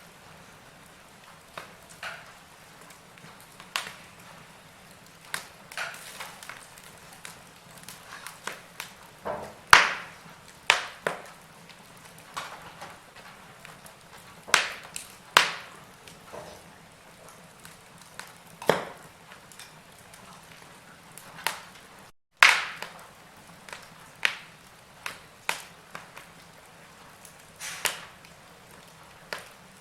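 Wood fire burning in a fireplace, crackling: irregular sharp pops and snaps over a faint steady hiss, a few of them much louder than the rest. The sound cuts out for a moment about two-thirds of the way through.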